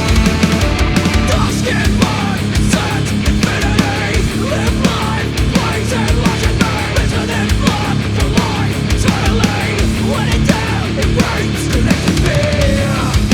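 Black metal recording: distorted guitars and bass under fast, dense drumming, loud and unbroken.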